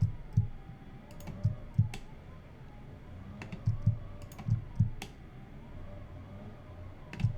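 Computer mouse and keyboard clicking: irregular clicks, some in quick pairs, while edges are selected one by one in CAD software.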